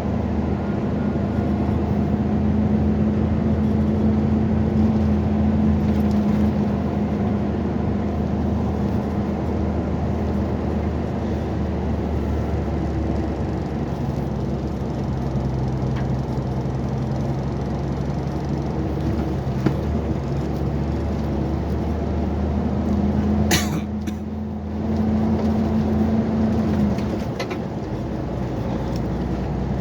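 Volvo compact excavator's diesel engine running steadily, its pitch shifting slightly now and then, with one short sharp noise about two-thirds of the way through.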